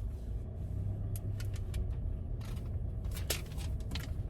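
Car engine idling, a steady low rumble heard from inside the cabin, with a few light clicks and rustles scattered through it.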